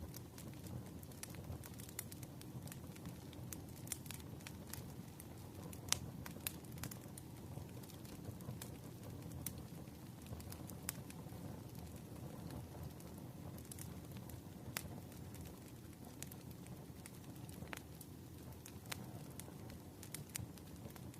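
Crackling fire ambience mixed with rain: frequent sharp, irregular pops and crackles over a steady low rumble.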